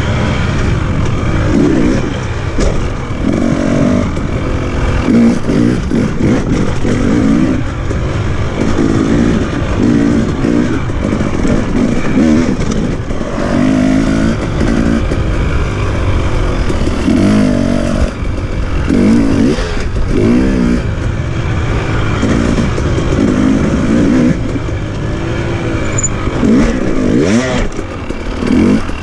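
Husqvarna TE 300i two-stroke single-cylinder enduro engine under way on a dirt trail, the throttle opened and closed every second or two so the engine note keeps rising and falling, with wind noise over it.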